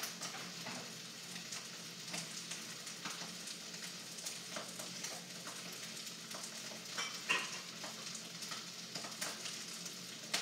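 Fried rice with Peking duck sizzling steadily in oil in a hot wok, with scattered crackles as the moisture cooks out and the rice crisps. A single brief clink about seven seconds in.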